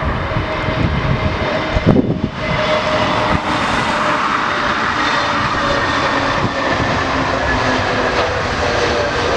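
Jet airliner's engines running loud and steady, a dense roar with steady whining tones over it. Wind rumbles on the microphone, with a sharp thump about two seconds in.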